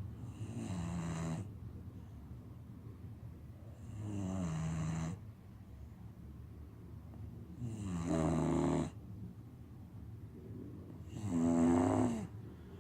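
Bulldog snoring in its sleep: four snores about three and a half seconds apart, each about a second long and dropping in pitch as it starts, with quieter breath noise between.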